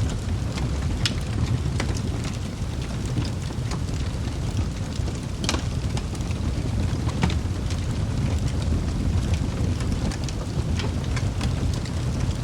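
Wood fire burning in a fireplace: a steady low rumble of flames with scattered crackles and pops from the burning logs, the sharpest pop about five and a half seconds in.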